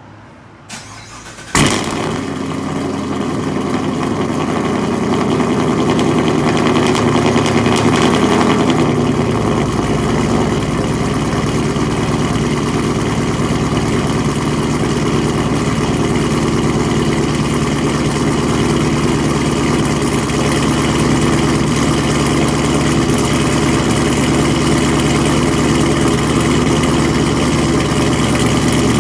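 Car engine with long-tube headers, no catalytic converters, no muffler and a stage 1 cam, cold-started: it catches with a sharp bang about a second and a half in, then runs at a steady idle through the open exhaust. The terrible popping on cold start is of a cause the owner doesn't know.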